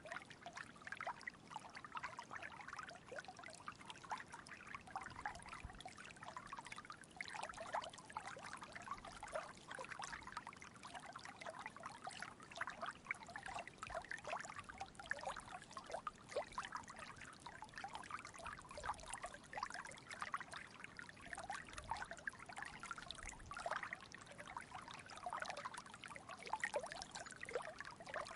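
Small stream trickling and babbling over stones, a steady patter of many little splashes.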